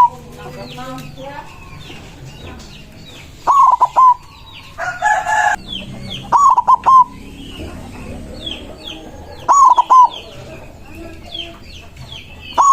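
White zebra dove (perkutut) cooing: loud phrases of three or four quick, clipped notes, repeated about every three seconds. Small birds chirp faintly throughout, and one short, harsher call breaks in about halfway.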